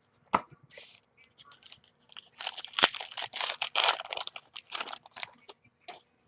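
Foil trading-card pack being torn open and crinkled by hand: a sharp snap early, then a few seconds of dense crackling tearing and crumpling, ending with one last rustle.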